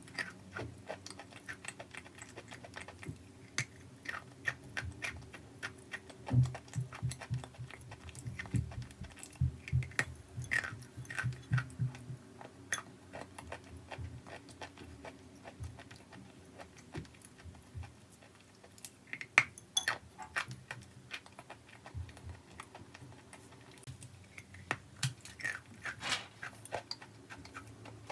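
Crunchy chalk and clay being crushed: a dense run of sharp crackles and crunches, with a cluster of heavier low thuds between about six and twelve seconds in.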